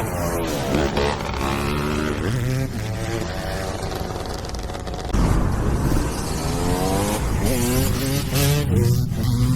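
Motorcycle engines revving up and down again and again, the pitch rising and falling with each blip of the throttle, with a louder, deeper surge of engine noise about five seconds in.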